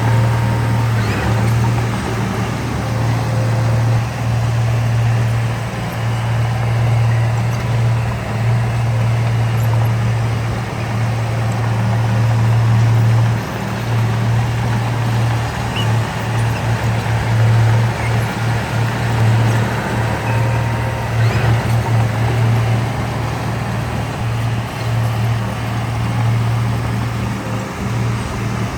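Diesel engine of heavy earthmoving machinery, a bulldozer or dump truck, running steadily as a deep, continuous drone that wavers slightly.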